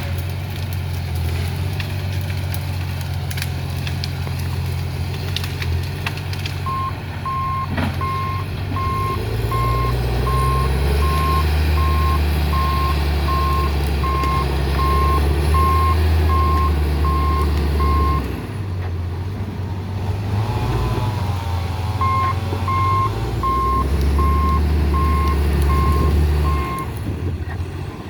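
John Deere 848H grapple skidder's diesel engine running and pulling harder about ten seconds in, with its reversing alarm beeping in a steady even rhythm in two runs, the second near the end.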